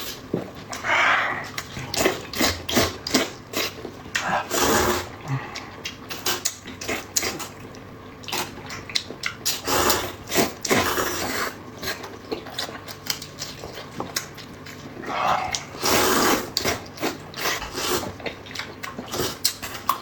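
Close-miked eating: wet chewing and lip-smacking clicks, broken by four longer slurps, about a second in, near 4.5 s, near 10 s and around 16 s. The food is pork intestine, loofah and hot dry noodles.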